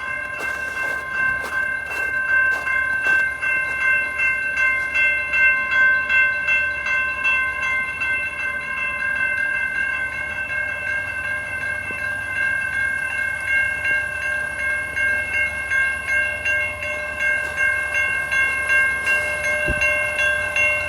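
Railroad crossing warning bell ringing continuously with a rapid, even ding, set off by a crossing-signal malfunction with no train approaching.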